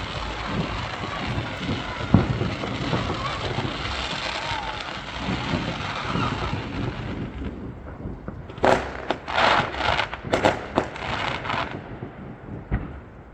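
Fireworks going off: a low boom about two seconds in over steady noisy background, then a quick run of sharp bangs and crackles in the second half.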